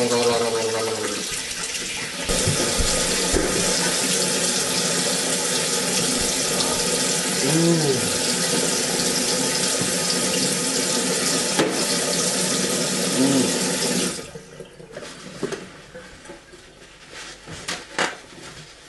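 Water tap running hard into a sink, shut off about fourteen seconds in.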